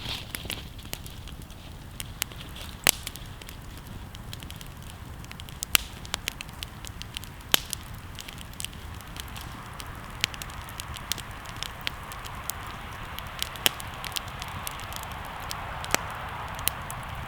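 Wood campfire burning, crackling with irregular sharp pops over a steady hiss of flames.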